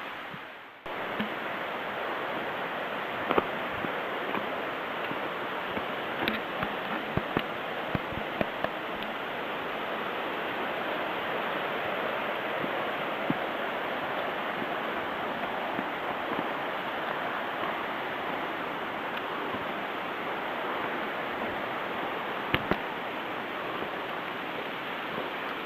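Steady rushing noise, typical of running water, with a few sharp clicks and snaps scattered through it.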